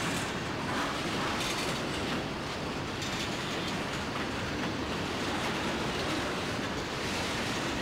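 Railroad cars rolling past on the track: a steady noise of wheels on rail, with a few sharper clicks in the first few seconds.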